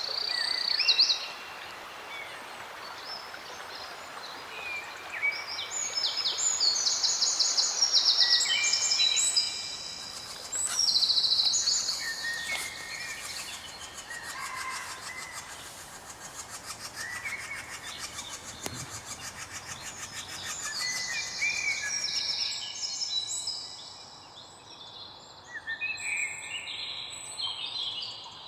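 Several songbirds singing at once: short, quickly repeated trilled phrases overlapping one another, over a faint steady hiss of outdoor background noise.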